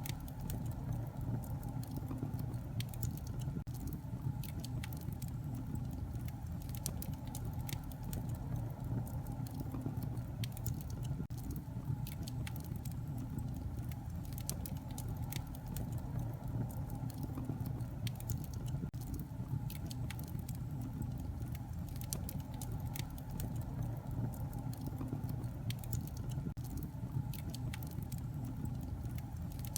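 Wood fire burning in a fireplace, with a steady low rumble of flame and frequent sharp crackles and pops.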